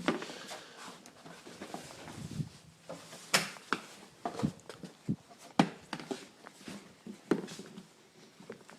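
Irregular clicks and knocks of a snowmobile's hood being unfastened and lifted, with a few sharper knocks about three and a half, five and a half and seven seconds in, and some shuffling footsteps.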